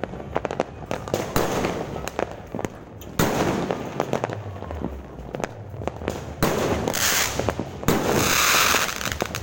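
Fireworks going off: a rapid run of sharp bangs and crackles, with longer hissing bursts near the end.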